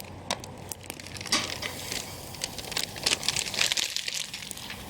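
A steak sizzling on a hot grill rack over a wood fire: a steady hiss with many small crackling pops, swelling twice.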